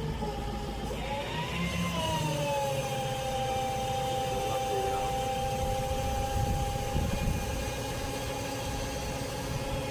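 Truck engine running, with a whining tone that rises about a second in, then falls back and holds steady from about three seconds in.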